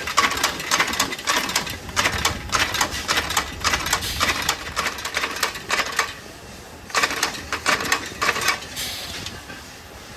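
Rapid, irregular mechanical clicking and clattering that breaks off about six seconds in, resumes briefly, then gives way to a faint hiss near the end.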